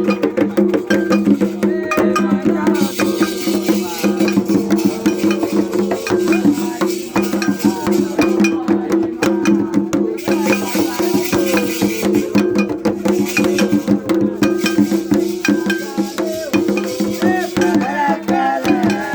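Live percussion music: shakers and rattles with fast drumming and voices, over a steady low hum.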